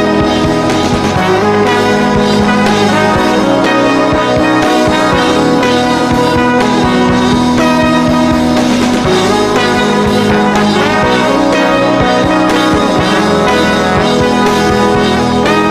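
Instrumental break of a band's song with no vocals: sustained brass lines over a steady drum beat.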